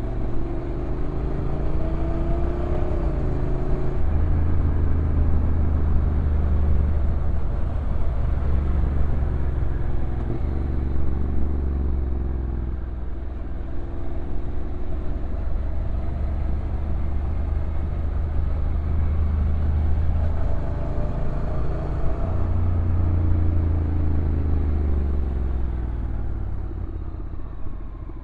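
Honda NC750X DCT motorcycle's parallel-twin engine running downhill, its pitch rising and falling with a few sudden steps, over wind and road noise.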